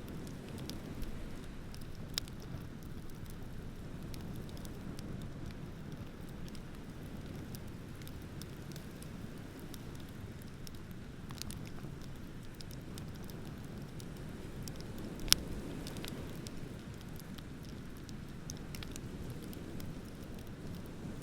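Wood bonfire crackling, with scattered sharp pops and one loud pop about three quarters of the way through, over a steady low rush of ocean surf.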